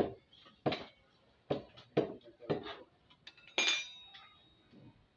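Metal clinks and knocks, about eight sharp strikes of tools against metal parts. One a little past the middle rings briefly. A part of the washing machine's spin-dryer that won't come free is being worked at.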